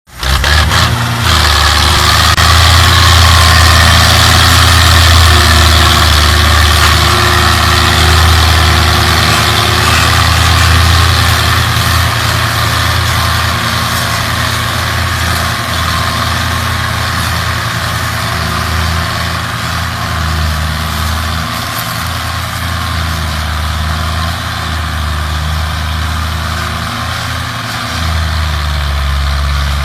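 Tractor engine running loudly and steadily.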